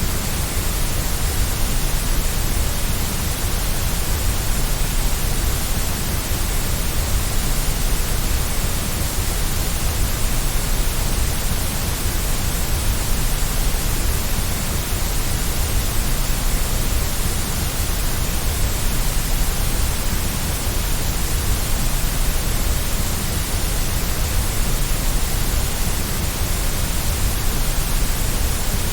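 Steady white noise, an even hiss with a low rumble underneath.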